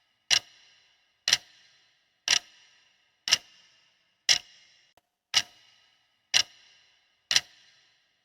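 Clock ticking as a quiz countdown timer, once a second, eight ticks, each a sharp tick with a short ringing tail.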